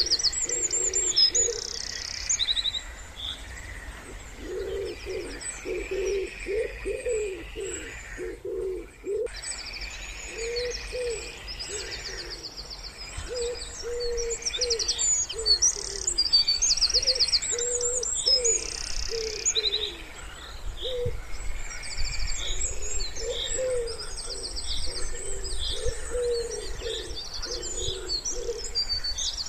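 Wood pigeons cooing in repeated low phrases, with other songbirds singing rapid high trills and chirps over them.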